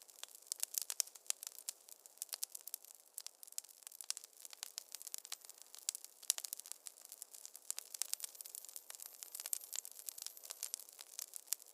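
Wood fire in a fireplace crackling, with a dense, irregular run of sharp pops and snaps over a soft hiss.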